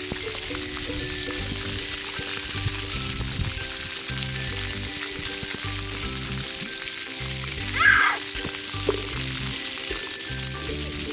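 Splash pad water jets spraying, a steady hiss, over background music. There is a brief high-pitched squeal about eight seconds in.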